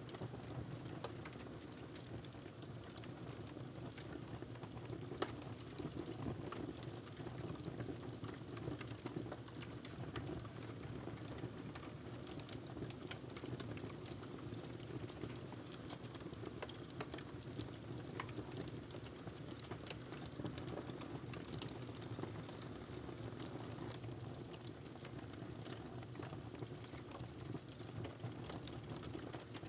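Wood fire crackling in a fireplace: irregular sharp pops and snaps over a steady low rumble of flame, with one louder pop about five seconds in.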